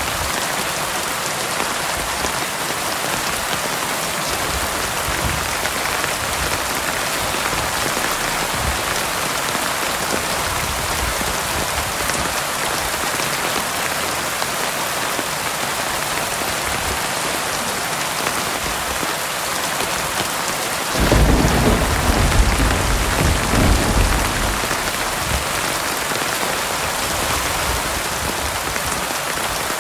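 Heavy rain pouring steadily, with a deep rumble of thunder about two-thirds of the way through that swells for a few seconds and fades back under the rain.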